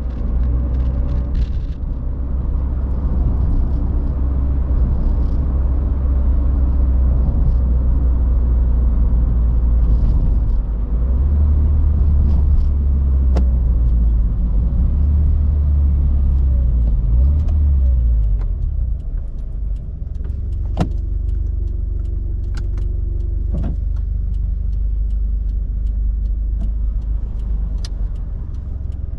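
Toyota 86's flat-four engine running through an HKS aftermarket exhaust: a steady deep rumble that grows heavier for several seconds midway and then eases. A few sharp clicks come near the end.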